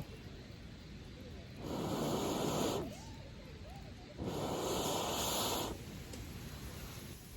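A person breathing heavily: two long, breathy rushes of air, each about a second and a half, coming about two and a half seconds apart.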